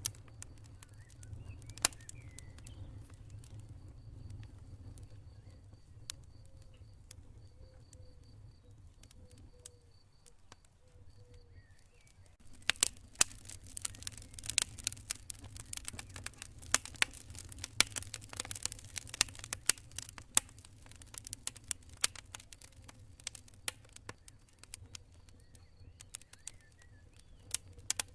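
Campfire crackling, with scattered pops in the first half that turn into a dense run of loud snaps from about halfway, then thin out again. A faint, high cricket chirp repeats in short groups over the first half. A low, steady rumble runs underneath.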